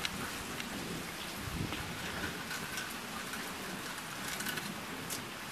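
Steady rain falling, a soft even hiss.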